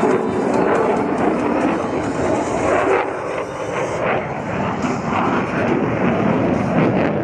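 Loud, steady jet engine noise from an F-35A Lightning II's Pratt & Whitney F135 afterburning turbofan as the fighter flies its aerobatic display.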